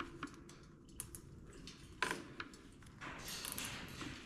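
Plastic zip ties being fastened and pulled tight on a wire cage: scattered small clicks and rattles, the sharpest about two seconds in, with rustling handling near the end.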